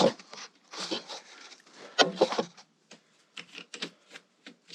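Torque wrenches and hand tools being handled and set down on a workbench: rubbing and clattering, then a run of light clicks and taps near the end.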